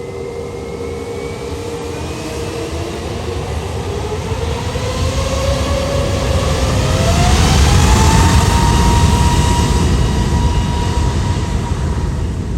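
Jet airliner engines: a loud rumble with whining tones that climb in pitch, growing louder to a peak about eight seconds in and then easing slightly, typical of engines spooling up.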